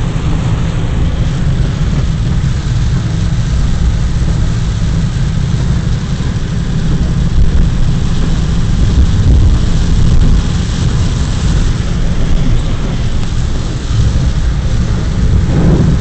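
Car driving in heavy rain: a steady, loud deep rumble with an even rushing hiss of rain and water.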